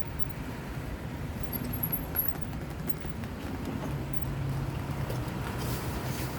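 Low, steady rumble of a motor vehicle engine, its hum growing stronger about four seconds in.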